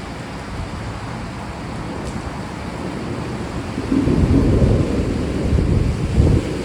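Steady rain with a low roll of thunder that swells in about four seconds in and keeps rumbling.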